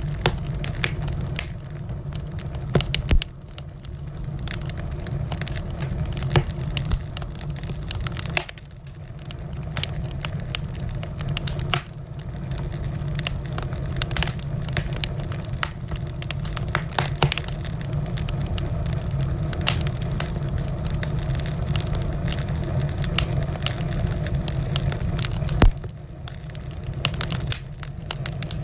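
Wood fire in a fireplace crackling, with frequent small pops over a steady low rumble and a few louder snaps.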